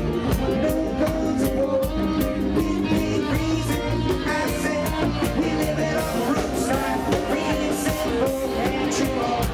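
Live roots reggae band playing a steady groove with guitar, bass and drums, in an instrumental stretch between sung lines.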